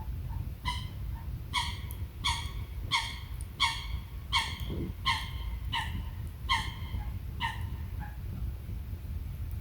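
An animal barking about ten times in an even series, short pitched barks a little under a second apart, stopping near the end.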